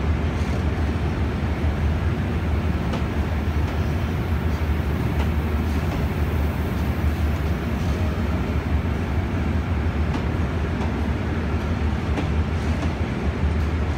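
Eastern & Oriental Express passenger train rolling slowly past along the platform: a steady low rumble and hum with a few faint clicks.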